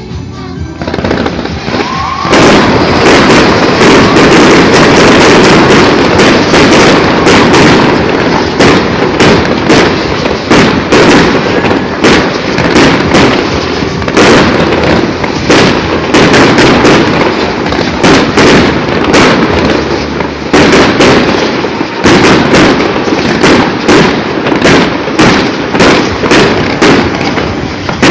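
Aerial fireworks going off in a dense, loud barrage of bangs and crackling, building up about two seconds in and going on without a break.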